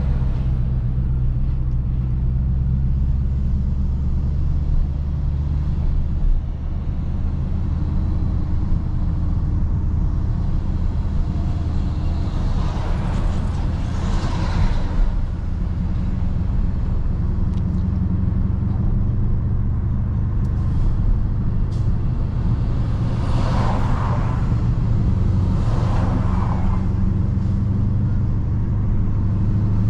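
Dodge Charger Scat Pack's 6.4-litre HEMI V8 running steadily while driving, a low exhaust rumble whose pitch shifts a few times with the throttle. Several brief rushing swells pass over it, around the middle and near the end.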